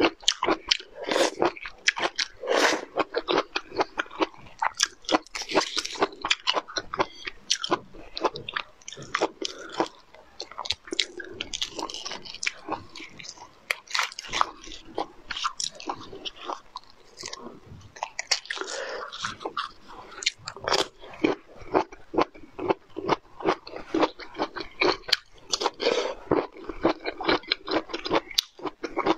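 Close-miked eating sounds of a person biting and chewing crunchy cooked bamboo shoots: a dense, continuous run of crunches and clicks.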